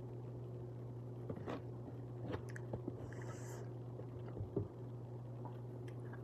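A person chewing a mouthful of macaroni and cheese, with a few small clicks of a metal fork on the plate, over a steady low hum.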